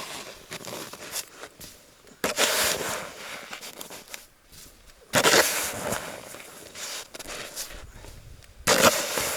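Snow shovel biting into and scraping through packed snow, with a stroke about every three seconds.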